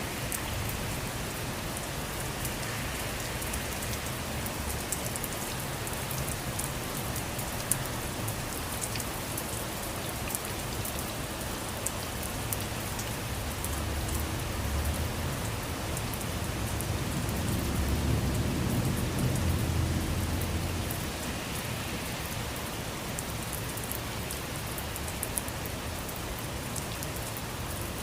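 Steady rain falling, an even hiss dotted with sharp drop clicks. A low rumble swells and then fades about two-thirds of the way through.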